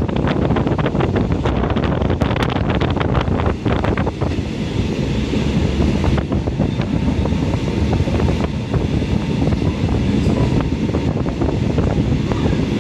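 Passenger train running, heard from inside the carriage: steady low rumble of wheels on rail with wind buffeting the microphone. Quick clicks and rattles for the first few seconds, then a steady rush.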